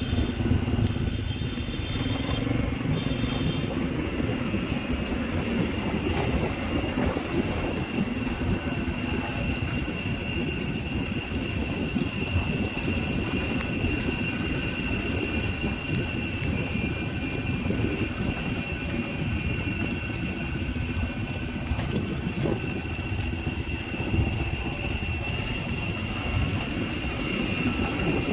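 Steady rumble of a motorbike on the move, with wind buffeting the microphone.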